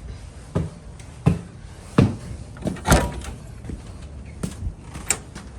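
A series of six or seven separate knocks and thumps at uneven intervals, the loudest about three seconds in.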